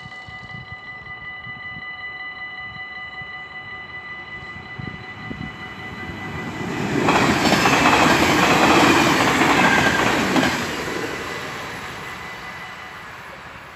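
Dutch level-crossing warning bell ringing steadily while a train approaches and passes through the crossing. The train's noise swells about six seconds in, is loud for about three seconds, then fades. The bell sounds on beneath it and dies away near the end.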